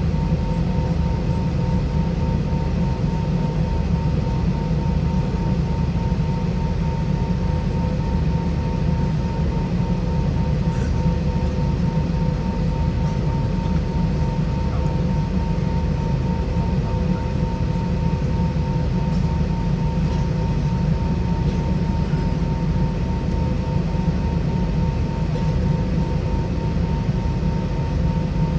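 Steady cabin noise inside an Airbus A320-232 with IAE V2533 engines: a strong low rumble and rushing noise, with two steady tones that hold throughout.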